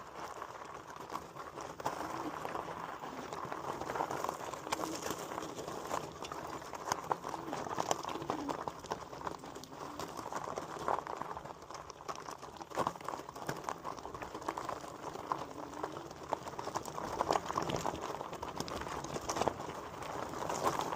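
Lectric e-bike rolling over a rough woodland dirt trail: a steady crunch of tyres on the ground and rattling from the bike, with many small irregular clicks and crackles.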